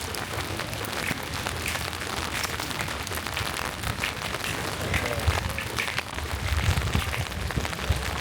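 Rain falling, a dense steady patter of drops with low rumbling gusts underneath.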